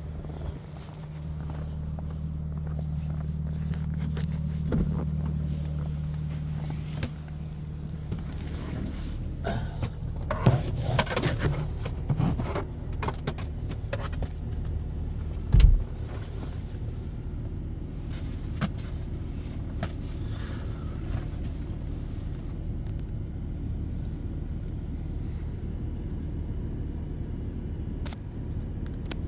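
A car engine idling with a steady low hum. Clicks and rattles come around ten to thirteen seconds in, and a single loud knock about fifteen seconds in.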